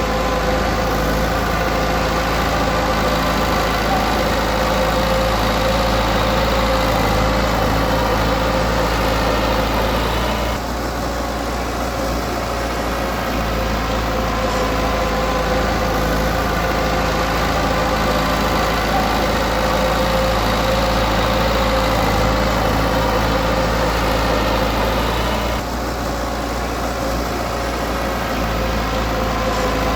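Diesel engine of a Komatsu D20P crawler bulldozer running steadily at work. Its higher tones ease off briefly about ten seconds in and again about twenty-five seconds in, as the load or throttle changes.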